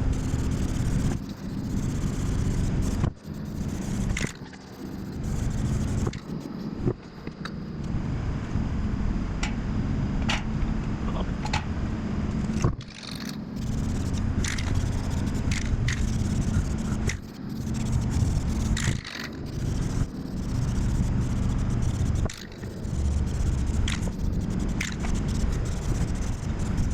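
Paint being sprayed onto a truck axle in repeated bursts of one to several seconds, each cut off by a short break.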